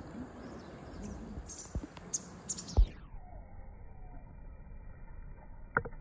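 Outdoor background hiss with a few short, high bird chirps about two seconds in. Low thumps land alongside them, the loudest a little under three seconds in, and a short pitched squeak comes near the end.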